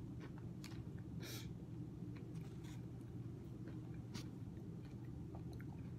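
Faint chewing with soft, scattered mouth clicks over a steady low hum.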